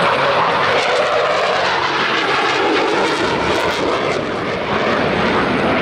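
Jet engine noise from Blue Angels F/A-18 Super Hornets flying over, a loud, steady rushing roar.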